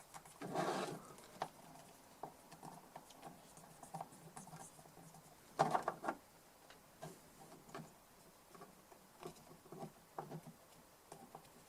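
Faint scratching, tapping and rustling from small hand work cleaning the dusty insides and contacts of a DI box with contact cleaner. There are two slightly louder scrapes about half a second in and near six seconds.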